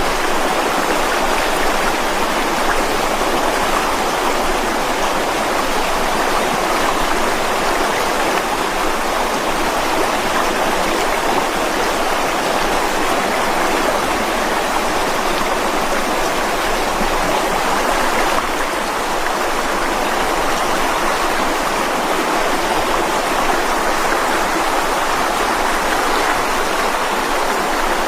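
Mountain river rushing over rocks: a steady, even rush of flowing water with a slight drop in level about 18 seconds in.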